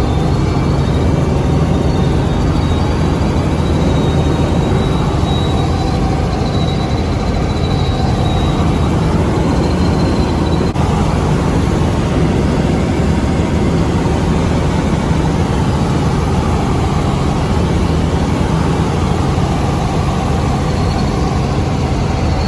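Helicopter running, a loud, steady engine and rotor drone with a faint high whine over it.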